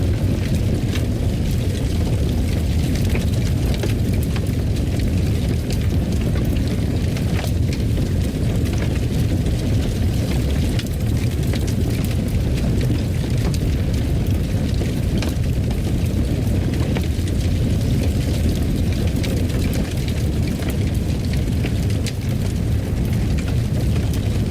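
Wood fire burning in a fireplace: a steady low rumble of flames with frequent small crackles and pops scattered through it.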